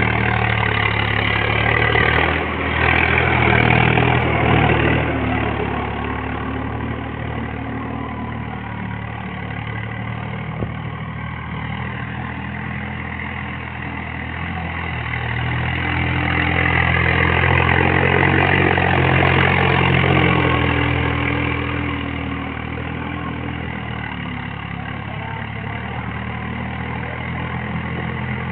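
Swaraj tractor's diesel engine running steadily while ploughing. It swells louder and higher twice, in the first few seconds and again about two thirds of the way through.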